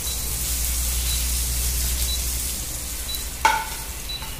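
Eggplant slices sizzling in hot oil while a metal spatula scrapes them out of the frying pan, with a single ringing metal clink about three and a half seconds in.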